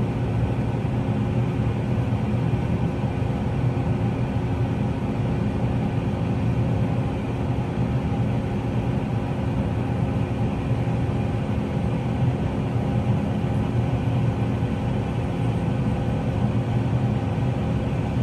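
New Holland T8 tractor engine running steadily under way, heard from inside the cab as an even drone with several steady tones and a strong low hum.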